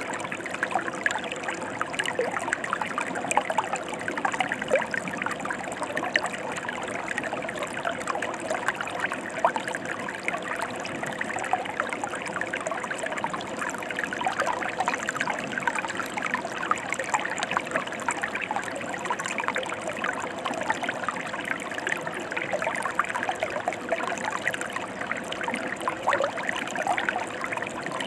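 Mountain stream flowing steadily, a constant rush of water full of small splashes and gurgles.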